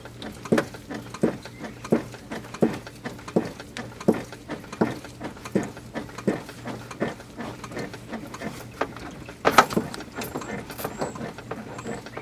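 A used oil filter being shaken by hand to empty it of old oil: a steady rhythm of short knocks and shakes, a bit more than one a second, with a louder clatter about nine and a half seconds in.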